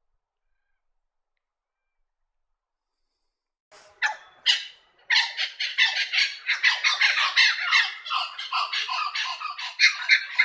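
Blue-winged kookaburra calling: a loud, raucous run of cackling notes in quick succession, starting about four seconds in after silence.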